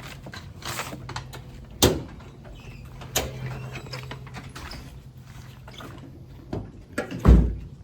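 Several sharp metal clunks and knocks, ending in a heavy low thump near the end, as the hood of a Chevy pickup truck is unlatched and opened.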